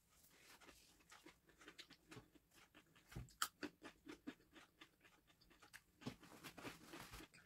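Faint crunching and chewing of a snack eaten by hand: a run of small clicks and crackles, with one sharper click about three and a half seconds in.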